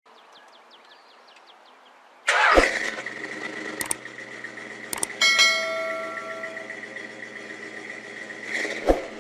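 A car engine starting: a sudden loud burst as it fires about two seconds in, then it keeps running steadily, with a few sharp clicks along the way.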